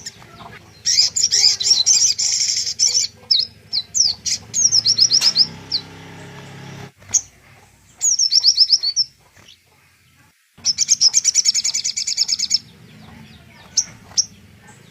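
A songbird singing: bursts of very rapid, high-pitched trills about two seconds long, alternating with runs of quick falling notes. It is a recorded tutor song of the kind played to train white-rumped shamas.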